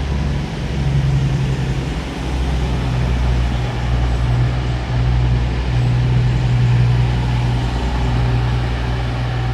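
Class 222 Meridian diesel multiple unit's diesel engines running with a steady low drone.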